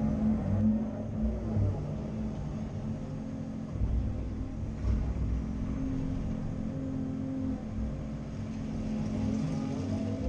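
CAT 330 Next Generation excavator's diesel engine running under working load, a steady hum whose pitch and loudness rise and fall slightly as the machine works.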